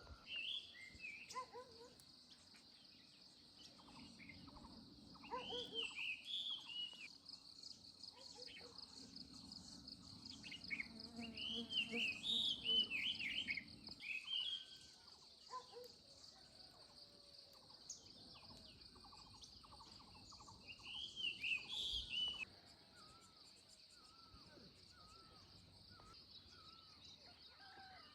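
Rural outdoor ambience: a steady, high insect trill runs throughout. Over it come several bursts of bird calls, loudest about halfway through, and smaller chirps near the end.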